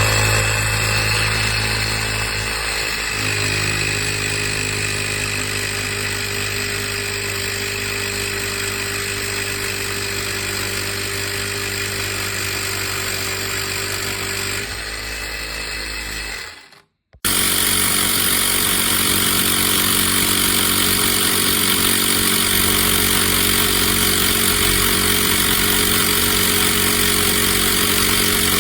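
A small portable electric tyre inflator's piston compressor running steadily. It stops abruptly about 17 seconds in, then starts again straight away and runs on, louder.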